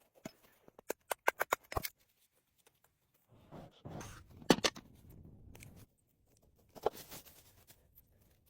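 Handling sounds: a quick run of about eight sharp clicks or snips, then a longer rustle with one loud knock in the middle, and a brief crackle near the end.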